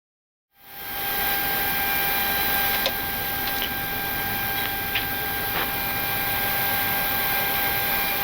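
Steady flight-deck ambience in a parked Boeing 737-800: air-conditioning hiss with a steady electrical whine, and a few faint switch clicks. It fades in about half a second in.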